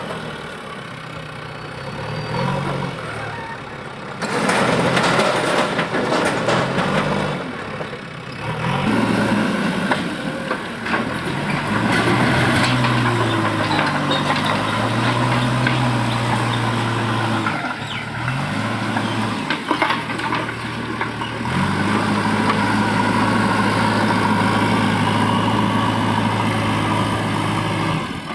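JCB 3DX backhoe loader's diesel engine working, its pitch rising and falling as it revs up and settles back. A loud, rattling burst of noise starts about four seconds in, and another comes a few seconds later.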